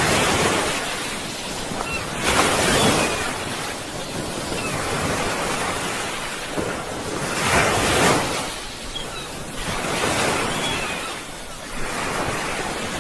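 Sea waves breaking on a shore, the surf swelling and easing in several surges, with a steady wash of water in between.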